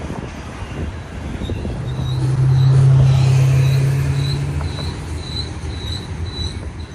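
Railroad equipment moving at Norfolk Southern's Altoona shops: a steady low engine or motor note swells to its loudest about three seconds in and then fades, with short high squeaks repeating about twice a second, like steel wheels squealing on the rail.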